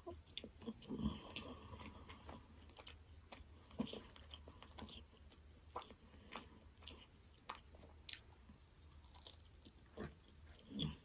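Close-miked eating: chewing and biting into Wingstop chicken wings, heard as faint, irregular short mouth clicks and smacks.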